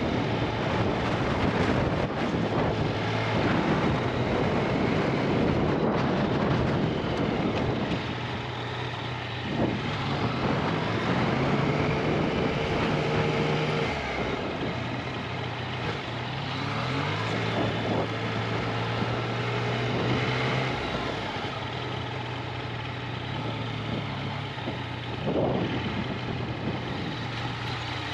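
2021 Yamaha XSR900's inline three-cylinder engine at low speed, with wind and road noise for the first several seconds. The engine then runs on as a steady, lower note that shifts in pitch a few times as the bike rolls slowly.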